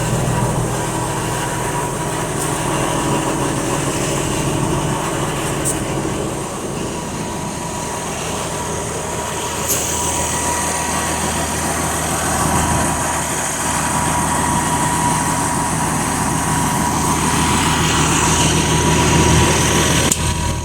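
Bus's Cummins 8.3 inline-six diesel engine running steadily, its note shifting about six seconds in, with a thin steady whine over it.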